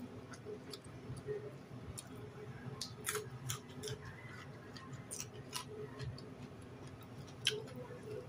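Faint eating sounds: someone chewing rice with raw green vegetables, with scattered irregular clicks and smacks of the mouth.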